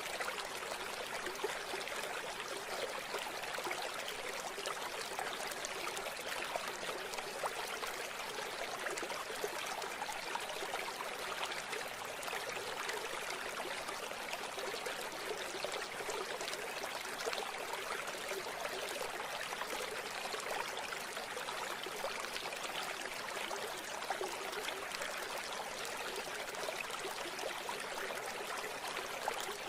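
River water running and babbling over rocks: a steady, even rush with no deep rumble.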